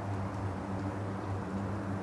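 Steady low drone of aircraft engines running at a distance, over a background noise haze.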